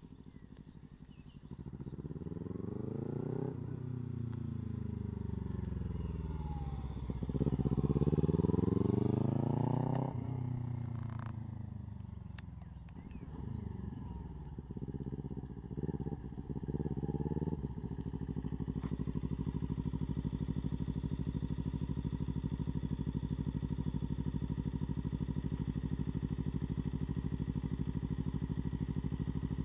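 Kawasaki Ninja 300's parallel-twin engine as the bike is ridden at low speed, its pitch rising and falling several times as the throttle is opened and eased off. After a few short changes it settles into a steady idle about eighteen seconds in.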